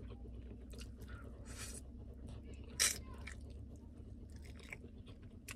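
Close-up mouth sounds of someone eating sauced chicken wings: soft wet chewing and biting, with one sharper click a little under three seconds in, over a faint low hum.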